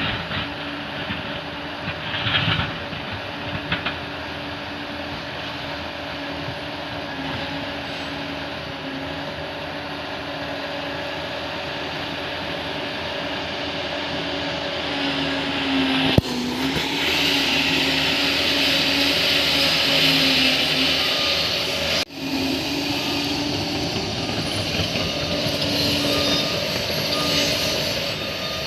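Bulldozer's diesel engine running under load, its note dipping now and then as it lugs, with the clatter and grind of tracks and earth growing louder in the middle. Two sudden breaks in the sound about two-thirds of the way through.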